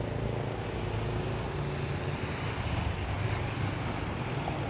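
A steady low engine rumble with wind noise on the microphone.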